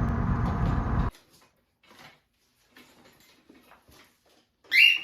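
Road noise inside a moving car, which cuts off abruptly about a second in. Then faint rustles and clicks, and near the end one short, loud, high-pitched chirp from a pet bird.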